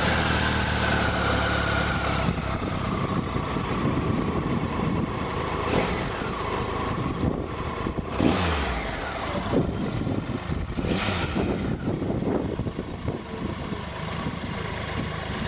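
Triumph Tiger Explorer 1200's inline three-cylinder engine idling just after start-up, then revved a few times, each rev rising and falling back to idle.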